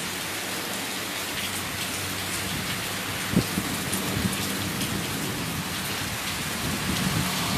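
Heavy rain falling steadily, with a single sharp knock about three and a half seconds in.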